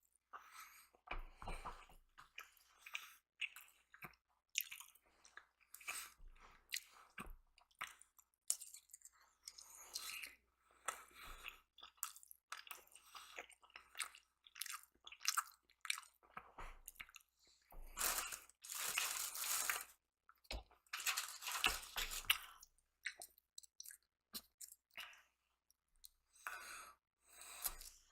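A person chewing and biting breakfast food close to the microphone: irregular wet, crunchy mouth sounds, louder for a few seconds about two-thirds of the way through.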